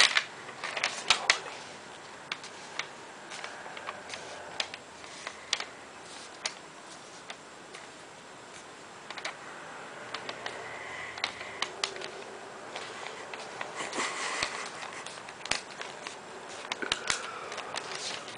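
A sheet of paper being folded and creased by hand: scattered crisp crackles and clicks, with soft rustling between them.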